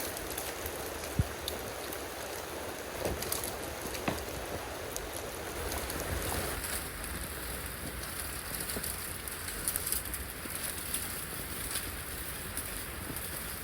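Rain falling steadily, an even hiss with scattered drop ticks and one sharper tap about a second in; the higher part of the hiss eases off about halfway through.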